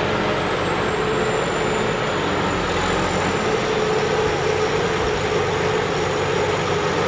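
Thai Seng Yont combine harvester running steadily under load, a continuous engine and machinery drone with a thin high whine that slowly drops in pitch.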